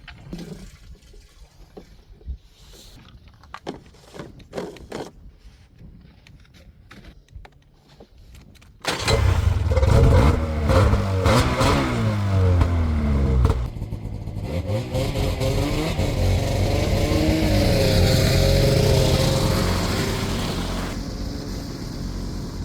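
Scattered quiet clicks and knocks, then about nine seconds in a two-stroke Arctic Cat snowmobile engine comes in loud. It revs up and down for a few seconds, then runs steadily, swelling and slowly easing off near the end.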